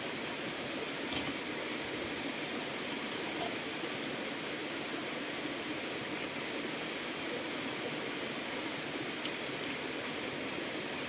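Steady rushing of water, with a couple of faint ticks, about a second in and again near the end.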